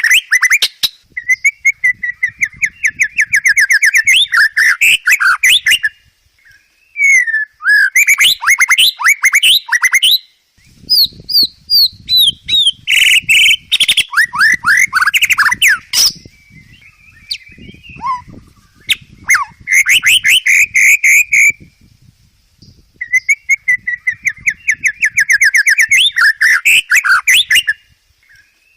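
White-rumped shama (murai batu) singing a long, varied song of loud whistles and fast trills. Its phrases follow one another with short pauses between them. The song is packed with mimicked phrases of other birds.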